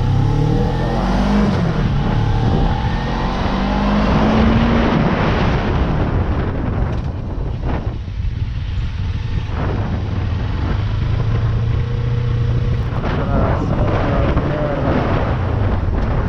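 Suzuki GSX250R's parallel-twin engine running on the move, its pitch rising and falling with the throttle and gear changes, under a steady rush of wind and road noise.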